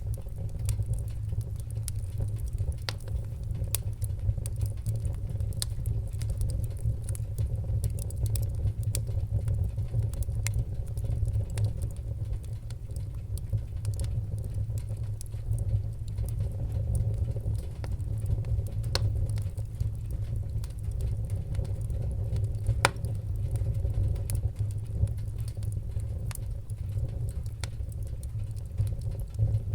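Wood fire crackling: a steady low rumble of flames with scattered sharp pops and crackles, a few of them louder.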